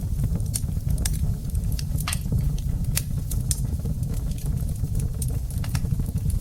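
Wood fire burning in a fireplace: a steady low rumble of flames with scattered sharp crackles and pops from the burning wood, a few of them louder.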